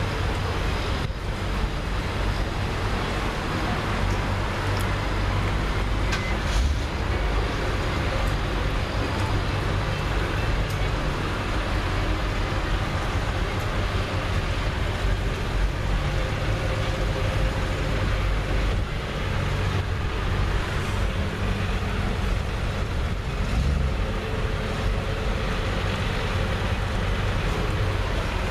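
Tractor engines running steadily: a low, continuous engine noise as the tractors go by.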